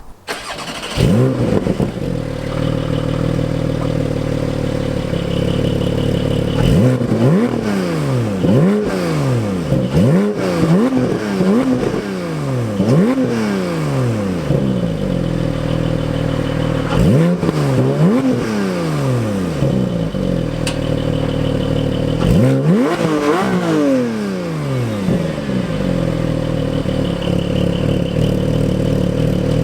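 Porsche 718 GT4's 4.0-litre flat-six, exhaust valves held open, idling and revved in three groups of quick throttle blips, each rev rising and falling straight back to idle.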